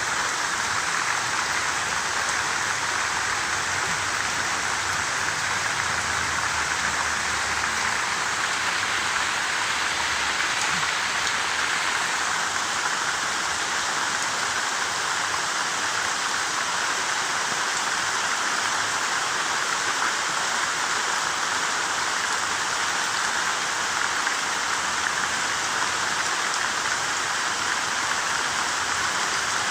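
Steady rain falling, an even dense hiss of drops with no letup.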